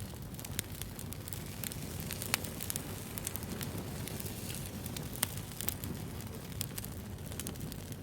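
Wood bonfire burning, a steady low rumble with frequent sharp crackles and pops, two louder pops about two seconds and five seconds in.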